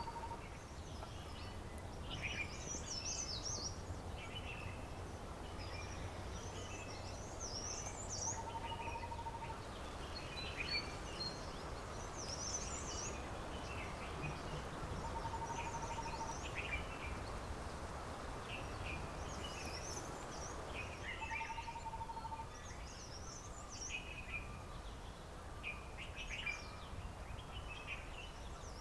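Several birds chirping and singing, with overlapping short trills, plus a short level whistled note that repeats about every six to seven seconds, over a steady low background hum.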